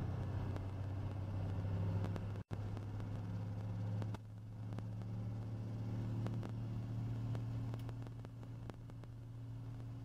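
Dodge pickup's 5.9 Cummins turbo diesel engine droning steadily under way, heard from the cab. The sound cuts out for an instant about two and a half seconds in.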